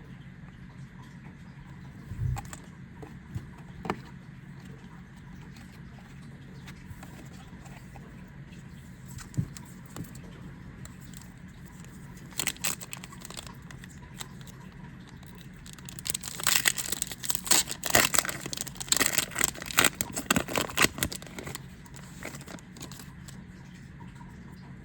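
Foil trading-card booster packs and cards being handled: scattered light taps and clicks, then a dense spell of crinkling and crackling lasting several seconds in the second half, as a pack is torn open.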